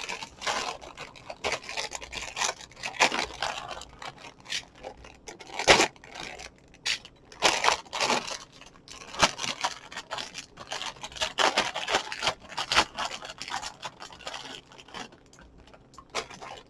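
Plastic cereal bag crinkling and tearing as it is pulled open by hand, with irregular crackles and scrapes; the bag is stubborn and won't open all the way.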